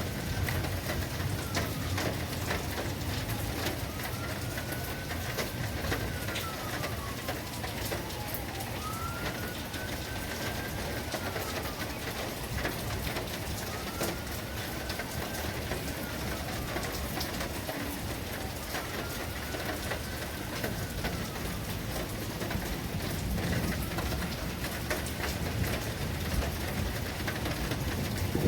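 Steady rain falling, with a bird calling six times at even spacing through it, each call a single whistle that rises and then falls.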